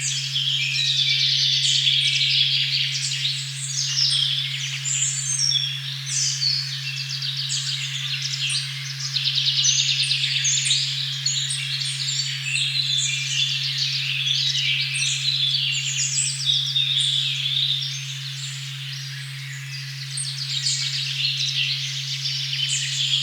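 A steady, unchanging 136.1 Hz sine tone hums under a forest dawn-chorus-like mix of many birds chirping and trilling at once. The birdsong is dense throughout and thins briefly near the end.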